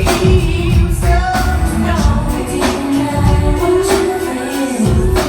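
Live R&B concert music: a sung vocal line held over the amplified band's heavy bass and drum hits, which land at a slow, even pace, echoing in a large hall.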